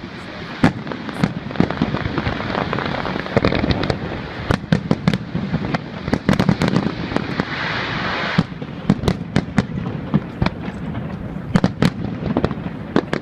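Fireworks display: sharp bangs fired in quick succession over a dense crackle of bursting shells. The crackle eases off about two-thirds of the way through, while the bangs continue.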